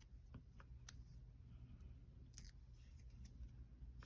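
Near silence with a few faint, short clicks and taps of hands handling small paper craft pieces and adhesive foam dots.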